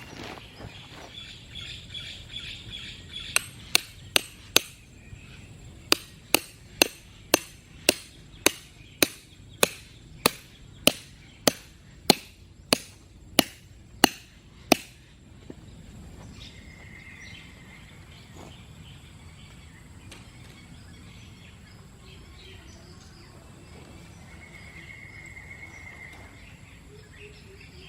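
Tent pegs being driven into the ground with a hammer: a quick run of four strikes, then a steady series of about eighteen strikes, roughly two a second. Birds chirp in the background before and after the hammering.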